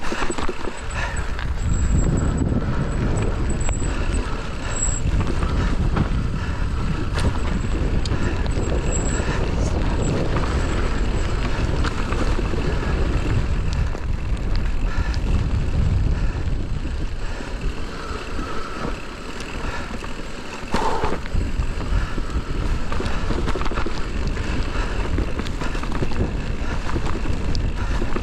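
Electric mountain bike descending a rough trail: tyres rolling over gravel and rock, with the chain and frame rattling, while wind buffets the camera's microphone.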